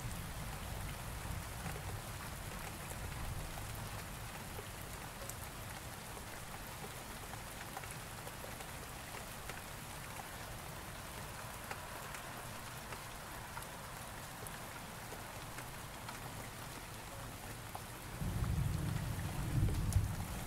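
Steady rain falling, with fine patters of drops. A low thunder rumble fades out near the start, and another builds about 18 seconds in and is loudest near the end.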